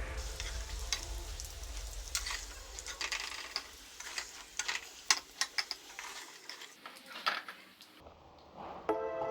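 Potatoes frying in hot mustard oil in a kadai: a steady sizzle with scattered clicks and scrapes of a spatula as the browned potatoes are lifted out. The sizzle dies away about six seconds in.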